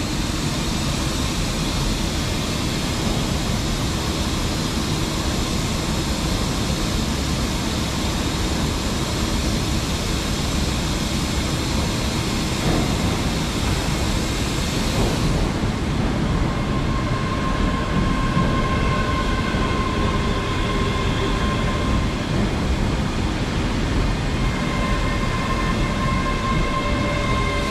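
ScotRail class 385 electric multiple unit moving through the station with a steady rumble and hiss. About halfway the hiss drops away and a steady electric whine of several tones sets in.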